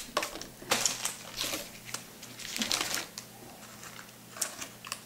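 Plastic snack wrappers crinkling and rustling in bursts as packets are handled, with a few light clicks and taps.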